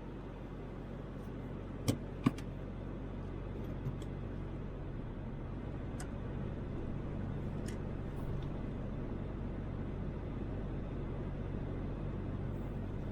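Steady road and engine noise of a Toyota Land Cruiser 80 driving on the highway, heard from inside the cabin. There are two sharp clicks about two seconds in.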